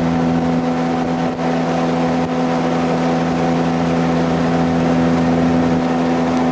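Jet boat engine running steadily under way, a constant drone with no change in pitch, over a steady rushing hiss of water and wind.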